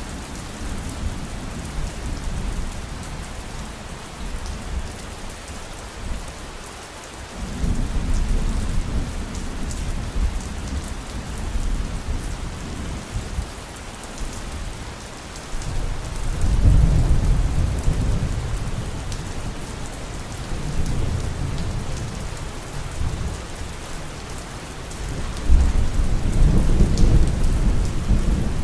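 Heavy rain falling steadily through a thunderstorm, with thunder rumbling low under it in three long swells, about a quarter of the way in, a little past halfway, and near the end.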